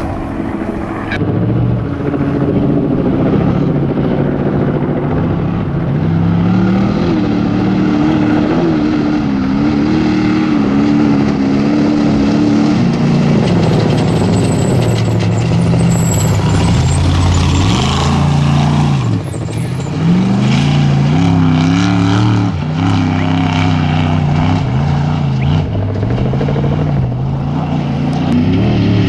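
Off-road race truck engine running hard, its pitch rising and falling again and again as it revs and changes gear.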